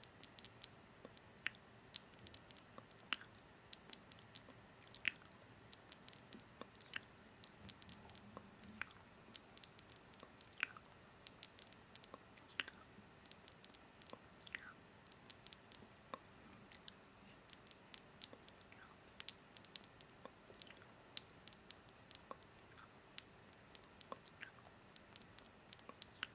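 Chewing heard close up: irregular clusters of sharp, crisp clicks, with a few short falling squeaks now and then.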